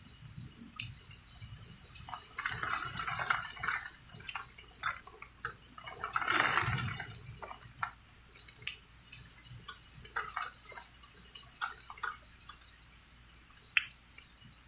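Rainwater dripping and splashing in irregular drops, with a louder patch of splashing about six seconds in.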